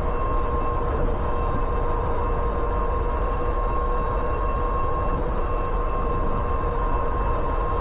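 Riding noise from an SMLRO V3 e-bike under way: wind rushing over the microphone, with a steady whine from the bike's electric motor at constant speed.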